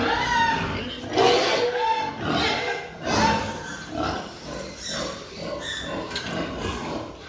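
Pigs grunting and squealing in a run of short calls, the loudest at about one and three seconds in.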